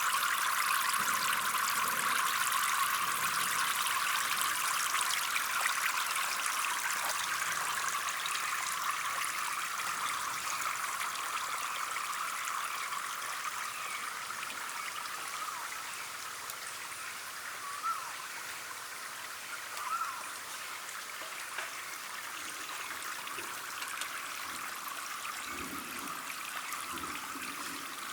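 Water trickling and flowing steadily, as from a small stream running into a pond, easing a little over time. Two brief high chirps come about two-thirds of the way through.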